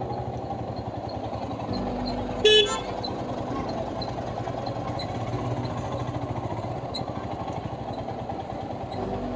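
Motorcycle engine running steadily while riding, with a short vehicle horn toot about two and a half seconds in.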